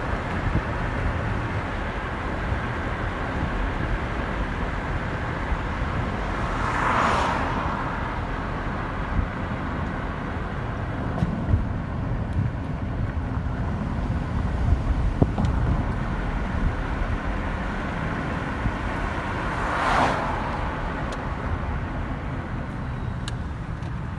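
Road traffic: a steady low rumble, with two vehicles swishing past about seven and twenty seconds in.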